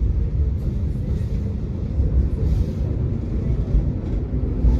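Tram running along its route: a steady low rumble of wheels and motors on the track, with a faint steady hum coming in during the second half.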